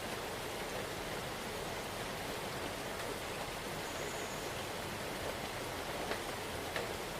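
Steady rain falling, a continuous even hiss with a few faint individual drop ticks near the end.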